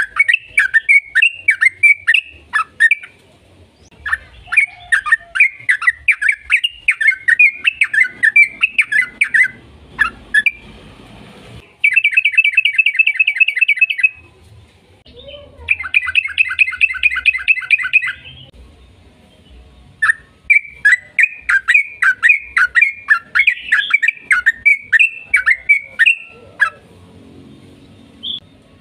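Yellow-vented bulbul (trucukan) singing in long bubbly, chattering phrases. Two fast, even trills of rapidly repeated notes come in the middle, the long rattling runs that keepers call "ropel".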